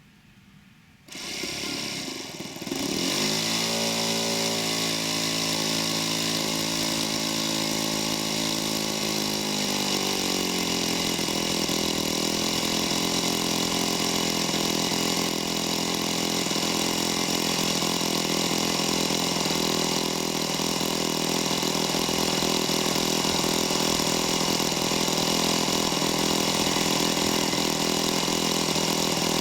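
A Saito 40 four-stroke glow engine in a model plane starts about a second in, catches within a couple of seconds, and then runs steadily. Its note shifts about ten seconds in and holds steady after that.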